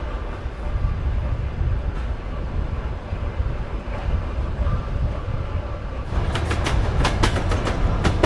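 Soviet-built sleeper train rolling along the track with a steady low rumble. About six seconds in, a quick run of sharp clacks starts as the wheels cross rail joints or points.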